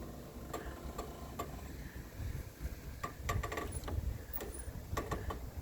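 Footsteps crunching in deep snow, irregular and uneven, over a low rumble of wind on the microphone.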